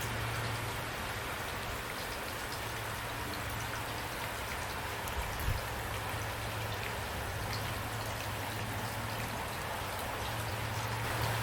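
Steady rain: a continuous hiss with many individual drops ticking through it, and a brief low thump about halfway through.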